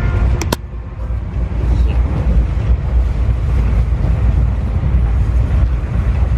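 Steady low rumble of a moving Indian Railways sleeper-class coach, with wind noise on the microphone; two sharp clicks about half a second in.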